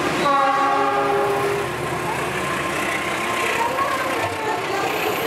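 Diesel-electric locomotive's horn sounding one steady blast of about a second and a half. The rumble and rattle of the train's wheels and cars running past the platform continues under and after it.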